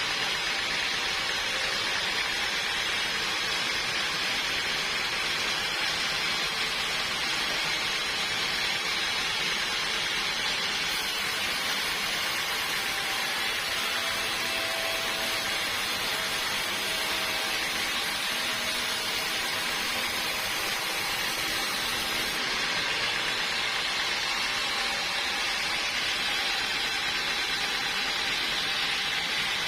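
Sawmill machinery running steadily: a constant, even hiss-like noise with no breaks, with a faint tone coming and going in the middle.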